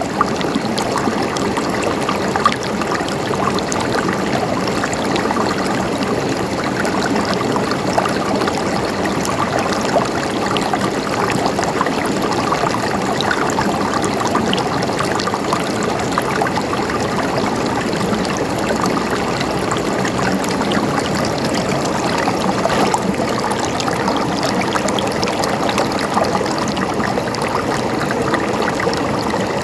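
Water flowing and trickling steadily over rocks in a stream, with many small gurgles and splashes.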